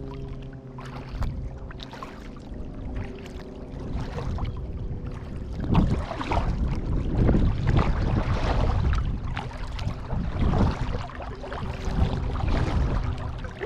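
Kayak paddling: water splashing and rushing as the paddle blades dip, in uneven surges that grow louder about halfway through.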